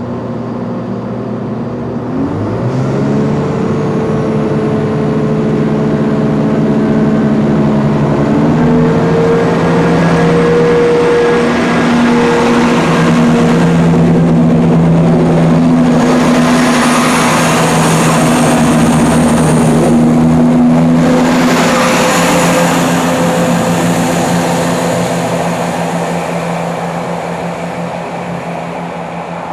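A vehicle's engine speeding up, its pitch rising about two seconds in and then holding steady through a few small steps. It grows louder towards the middle and fades near the end.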